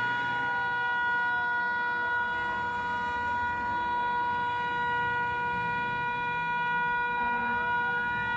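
A continuous, unwavering horn-like tone with faint emergency sirens gliding down and then up beneath it.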